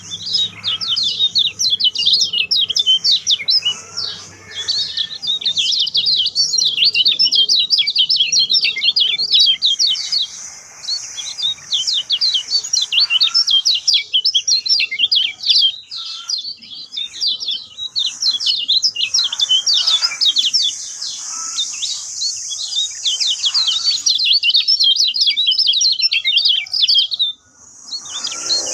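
Kecial kuning songbirds singing in a dense, continuous stream of rapid high chirps and trills, with short lulls and a brief gap near the end.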